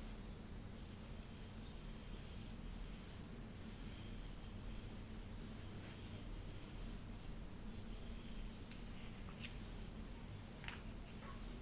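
Slow rubbing strokes through hair, close-miked: soft hissy swishes about once a second, with a few light clicks in the second half.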